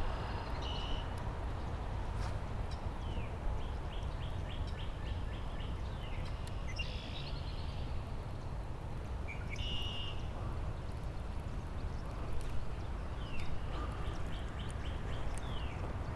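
Birds calling over a steady low rumble: short high chirps and several quick runs of repeated, falling notes, a few seconds apart.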